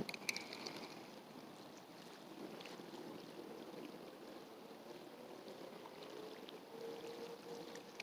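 Faint steady rush of flowing river current, with a few light clicks in the first second.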